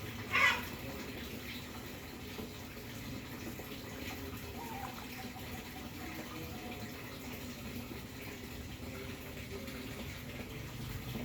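Steady running water at a fish pond, with one brief louder sound about half a second in.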